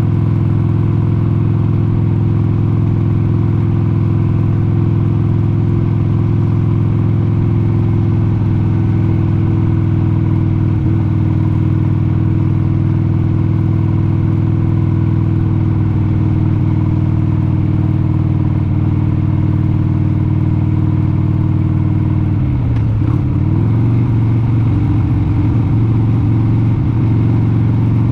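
1996 Harley-Davidson Sportster 883 Hugger's air-cooled V-twin engine running steadily at cruising speed. Late on its note briefly dips in pitch and then settles again.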